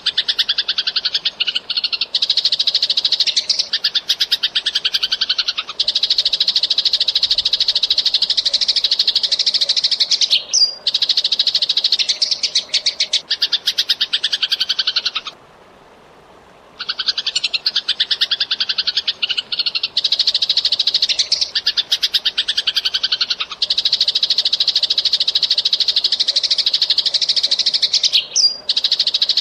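Eurasian tree sparrow chattering: very rapid, dense runs of high chirps with only brief breaks, one longer pause about fifteen seconds in. The same stretch of chatter repeats, as in a looped recording.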